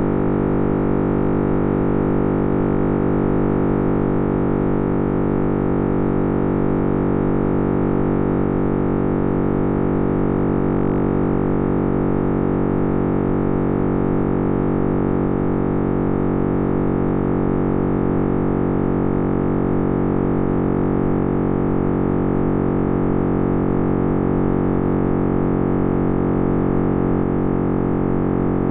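Computer-synthesized Big Bang sound simulation, built from cosmic microwave background data shifted up into hearing range: a steady, dense drone of many sustained tones.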